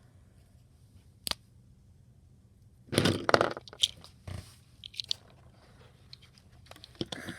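Handling noises: a sharp click about a second in, then a brief rustle and a few light clicks and a knock, as small objects are picked up and set down.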